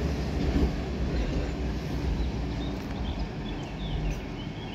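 Electric multiple unit moving slowly past the platform: a steady low rumble with a faint hum that eases off gradually. A few faint high chirps come near the end.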